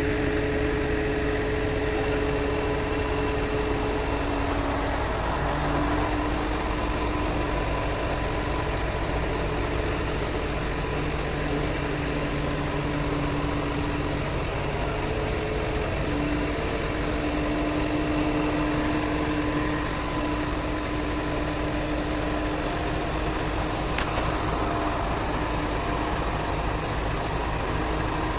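Diesel engine of an XCMG QY85K truck crane running steadily, with faint steady tones above it that shift in pitch now and then. There is a single sharp click near the end.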